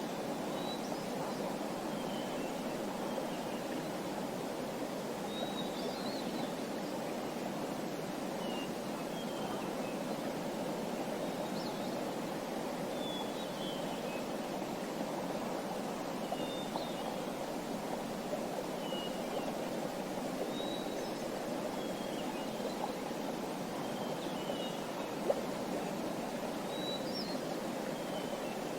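Small birds chirping in short, scattered high calls, every second or two, over a steady rushing background noise.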